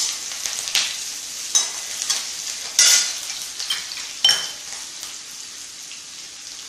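Green chillies frying in hot oil in an aluminium kadai: a steady light sizzle, with a few sharp scrapes and clinks of the metal spatula against the pan in the first four seconds or so. The sizzle grows softer near the end.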